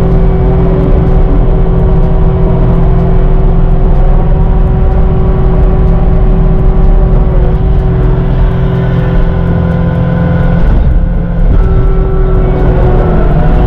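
Caterpillar 259D3 compact track loader's diesel engine running hard with a steady whine over its low rumble while pushing snow. The sound dips briefly about eleven seconds in, then picks up again.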